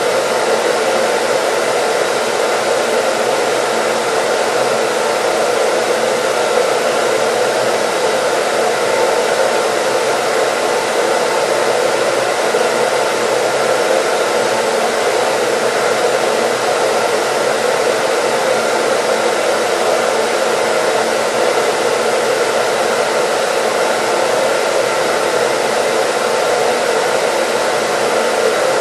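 Hair dryer running steadily: an even, unchanging rush of air over a faint motor hum.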